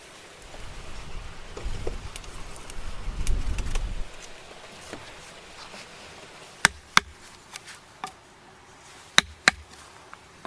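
Hand woodworking: a rough, low scraping rumble for a few seconds, then sharp knocks on wood, two quick pairs of chops.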